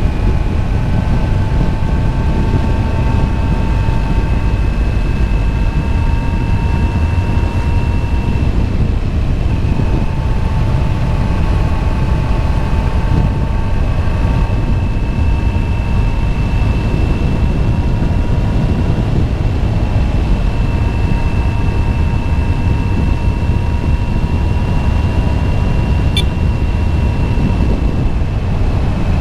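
Motorcycle riding at a steady cruising speed: a steady engine whine that creeps slowly higher, over heavy wind rumble.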